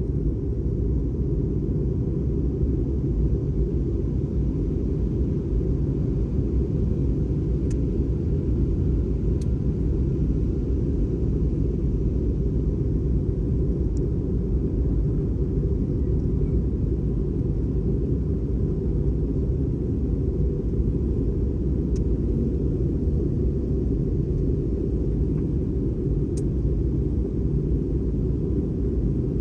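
Steady airliner cabin noise aboard an Airbus A320: a constant low rumble of engines and airflow, even in level throughout.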